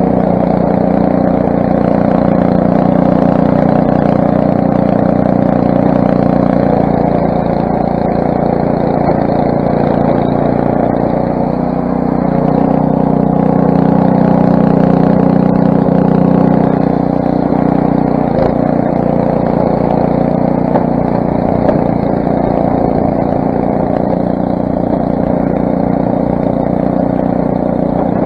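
Craftsman snowblower's 6 hp Briggs & Stratton engine running steadily, its pitch shifting a little and swelling slightly in loudness midway through.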